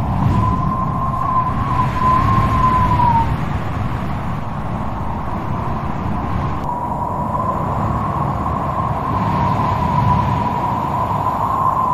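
Strong wind blowing with a low rumble and a high whistle that wavers around one pitch; the whistle fades out about three seconds in and comes back about halfway through.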